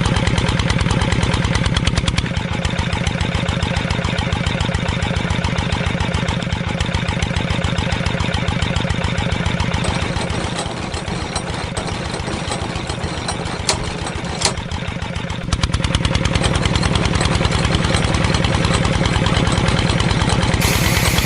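Small engine running steadily with a rapid, even pulsing beat. It drops a little in level about two seconds in and comes back up about two-thirds of the way through, with two sharp clicks just before that.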